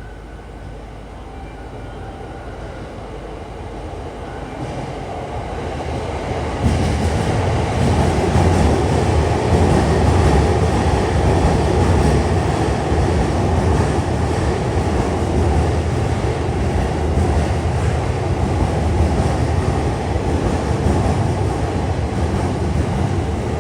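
Electric train approaching and running past close by, its wheels rumbling on the rails. The sound builds over the first few seconds, grows suddenly louder about seven seconds in, then stays loud and steady.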